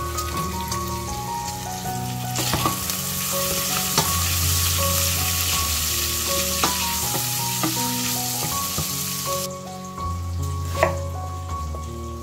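Diced bacon and sausage sizzling in fat in a stainless steel pot while being stirred with a wooden spoon, with a few sharp knocks. The sizzling swells about two seconds in and stops suddenly near the end, leaving background music.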